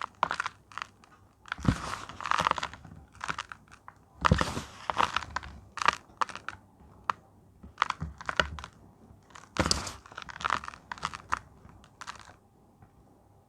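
Reformed gym chalk blocks crunching and crumbling as they are crushed, in an irregular run of crisp crunches that stops about a second before the end.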